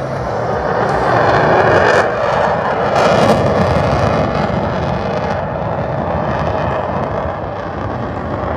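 Aircraft flying past: a loud roar that swells over the first few seconds and then slowly eases off.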